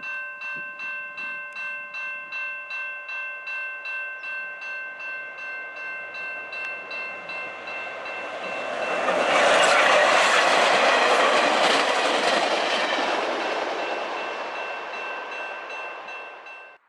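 Railway crossing bell ringing with about two to three strokes a second. Then a diesel-hauled passenger train passes over the crossing: a loud rush of wheel and engine noise builds to a peak about ten seconds in and slowly dies away, and the bell is heard again near the end.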